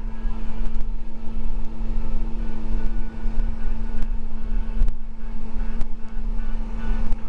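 School bus driving, heard from inside the cabin: a steady engine drone and deep road rumble, with a few sharp rattles scattered through it.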